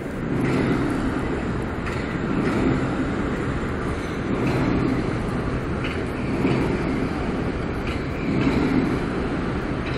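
Metro-North M8 electric multiple-unit train passing close by: a steady rumble of wheels on rail that swells and eases about every two seconds, with faint clicks.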